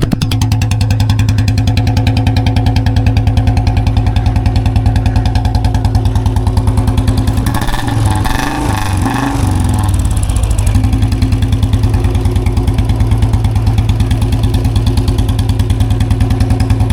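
Royal Enfield Bullet 350's single-cylinder engine running through a free-flow bend and long-bottle, small-mouth silencer: a fast, even exhaust beat that its rider calls sharper (tikhi) than the bassier big-mouth silencer. The pitch briefly rises and falls about eight to ten seconds in.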